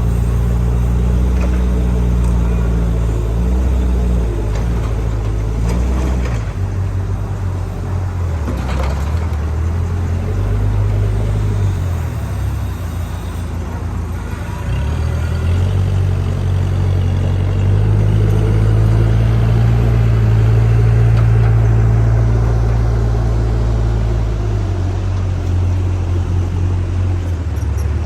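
JCB backhoe loader's diesel engine running under varying load, its note dipping twice and then rising and holding strongest past the middle.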